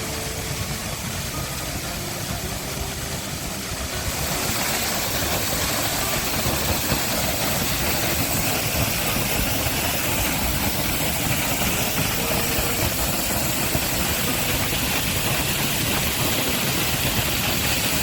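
Waterfall water rushing steadily, growing louder about four seconds in.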